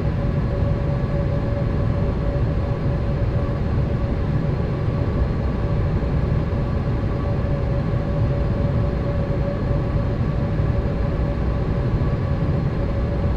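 Boeing 787 in flight heard from inside the cabin: a steady low rumble of engines and rushing air, with a steady hum held over it.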